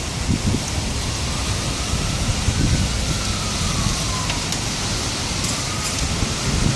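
Torrential thunderstorm rain pouring down in a steady hiss, with irregular low rumbling gusts underneath.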